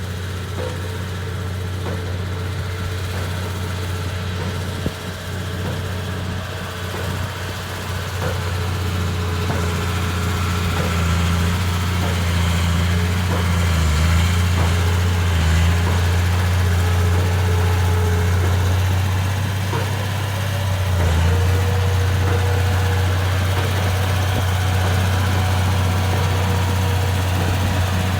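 Komatsu D31P bulldozer's diesel engine running steadily at a low, even pitch. It grows louder about eight to ten seconds in and then holds, with a brief dip near twenty seconds.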